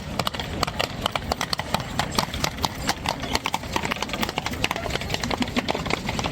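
Carriage horse's hooves clip-clopping on wet cobblestones: a quick, uneven run of sharp clicks that keeps going throughout.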